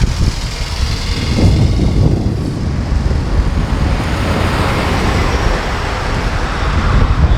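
Road traffic passing close by: a steady rumble of cars and other motor vehicles on the road.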